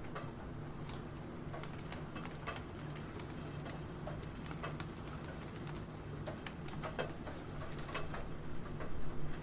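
Computer keyboard typing: irregular keystroke clicks, a little louder near the end, over a steady background of rain.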